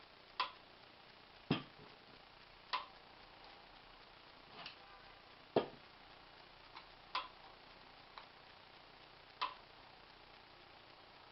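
Light clicks and taps of hard objects, about eight of them at uneven intervals, two of them heavier knocks, in a quiet room.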